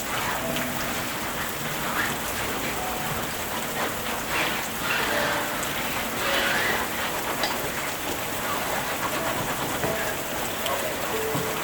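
Steady rain falling, swelling a little a few seconds in.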